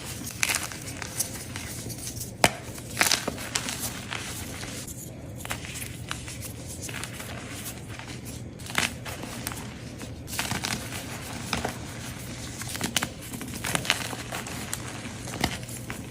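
Blocks of gym chalk crunching and crumbling as they are crushed, in irregular crackles and sharp snaps, over a faint steady low hum.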